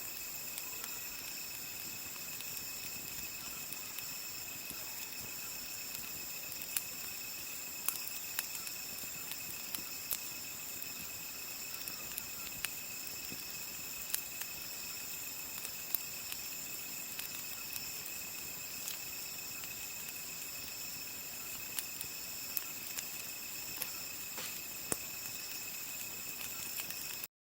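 A steady chorus of crickets trilling at night, with irregular sharp pops and crackles from a wood campfire. The sound cuts off suddenly near the end.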